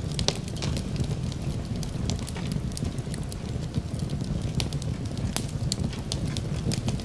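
Wood fire crackling in a fireplace: a steady low rumble of flames with many sharp, irregular pops and snaps.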